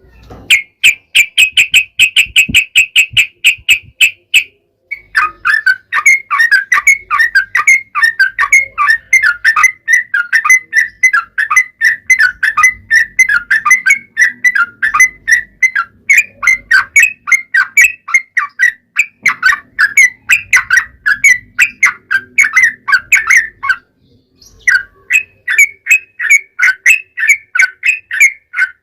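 Yellow-vented bulbul (trucukan) singing a long rapid chattering song of short, bubbling notes in quick succession. It opens with an even, fast series of higher notes, then runs on in a long unbroken chatter with one short pause near the end.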